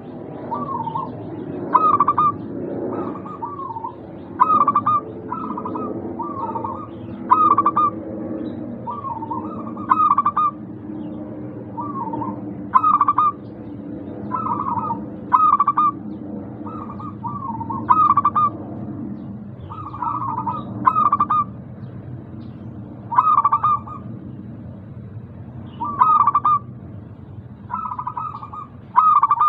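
Zebra dove (perkutut) cooing: short clusters of bubbling coos repeated every one to two seconds, over a low steady hum that fades about two-thirds of the way through.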